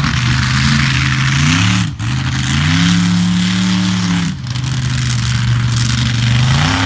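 Monster truck engine revving hard, the pitch climbing and falling as the throttle is worked, with brief lifts off the throttle about two seconds and about four and a half seconds in.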